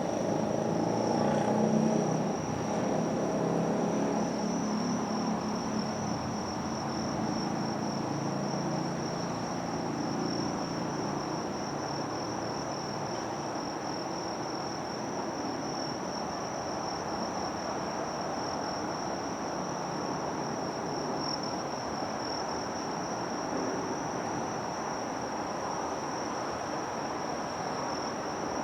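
Insects singing in one steady, unbroken high trill, over a low rumble that fades during the first several seconds.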